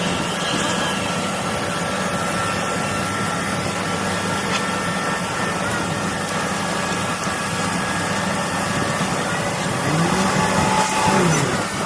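An engine running steadily, a constant drone. About ten seconds in it gets a little louder, with a tone that rises and falls in pitch.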